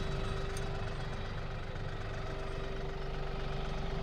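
Compact tractor engine running steadily, an even low pulsing with a steady hum through it.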